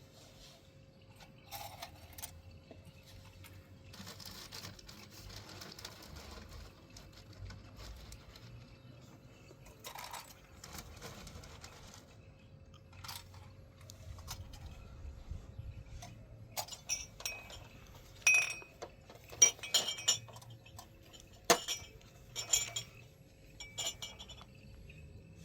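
Hard objects clinking and knocking together, with a run of sharp, ringing clinks in the second half, over a faint steady hum.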